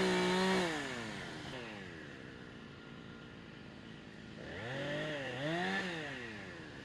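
Chainsaw revving up, holding high, and dropping back twice, about four seconds apart, cutting up storm-felled trees.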